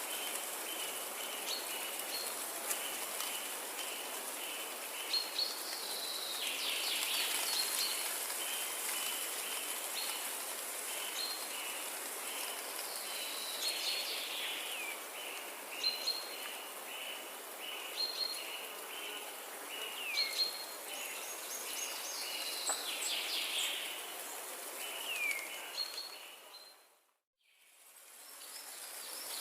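Forest ambience: birds calling and singing over a steady background hiss, with one high short note repeated evenly over and over and other calls sweeping down in pitch between. About 27 seconds in, the sound fades out to silence and then fades back up.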